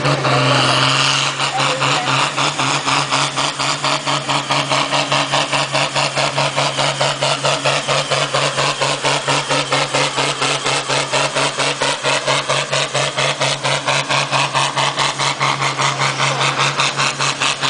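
Pulling tractor's engine running at a steady speed with a rhythmic pulse, about five beats a second, and a wavering higher whine above the low hum.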